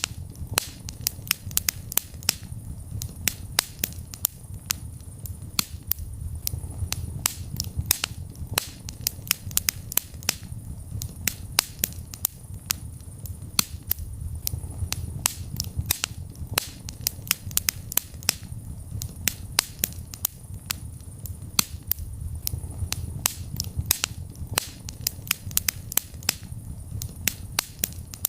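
Wood fire burning in a fireplace, crackling: frequent sharp pops and snaps, several a second, over a steady low rumble of the flames.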